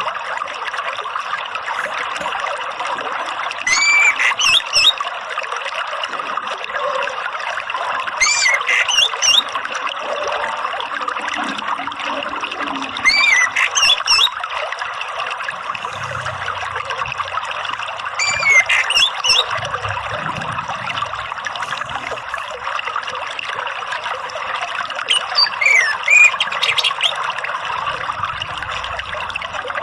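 Water trickling steadily, with an orange-headed thrush singing short clear phrases about every four to five seconds, played as a lure to get a caged bird singing.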